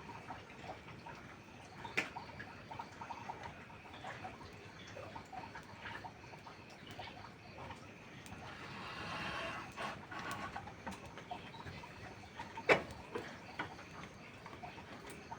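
Wood fire crackling with scattered small snaps and two sharp pops, one about two seconds in and the louder one near the end, over a steady hiss; a brief hissing swell rises and fades in the middle.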